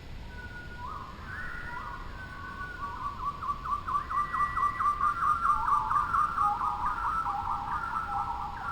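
Wild birds singing: clear whistled notes overlap, and a fast series of short repeated notes starts about three seconds in, grows louder toward the middle and runs on near the end.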